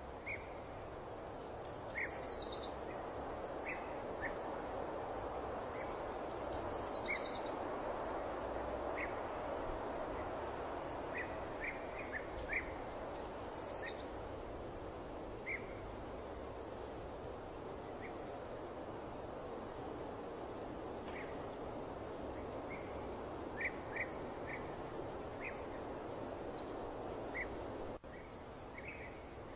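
Birds chirping and singing over a steady rushing background. A high, falling trill repeats every few seconds, with short chirps scattered in between.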